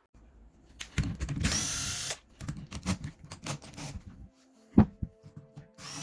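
Workshop handling of a rotary hammer and its parts: sharp clicks and knocks, with a short noisy whirring burst about a second and a half in. A low steady hum joins from about four seconds, under more knocks.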